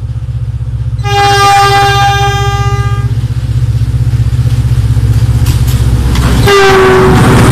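Diesel passenger train approaching with a steady low engine rumble; about a second in its horn sounds one steady blast of about two seconds. Near the end a shorter horn note drops in pitch as the train passes close by, and the rush of the wheels and coaches takes over.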